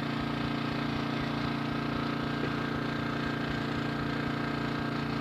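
Small portable generator engine running steadily at constant speed, an even drone that does not change.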